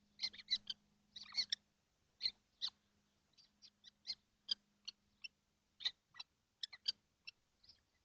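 Kestrels in a nest box giving short, sharp calls, irregular and often in quick pairs or runs, about two dozen over eight seconds. A faint steady low hum runs underneath.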